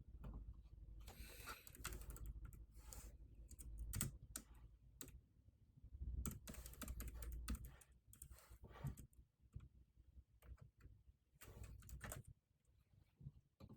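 Typing on a computer keyboard, faint, in several short runs of keystrokes with brief pauses between them.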